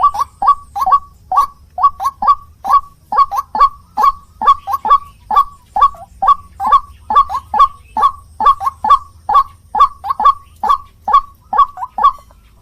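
White-breasted waterhen (ruak-ruak) calling: a fast, steady run of short, clipped notes at about three a second, some in quick pairs.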